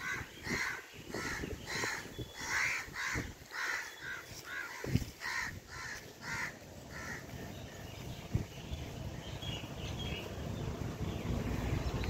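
A bird calling in a quick series of rough calls, about two a second, which stop around seven seconds in. After that only faint chirps remain, under a low rumble that grows toward the end.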